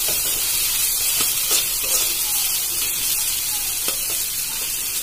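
Onion and ground-spice masala sizzling in oil in a kadai, with a spatula scraping and stirring it at irregular strokes as the masala is fried down.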